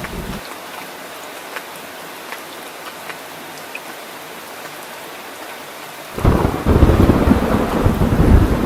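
Heavy rain falling with a steady hiss, as a rumble of thunder dies away just after the start. About six seconds in, a loud low roll of thunder breaks in suddenly and keeps rumbling.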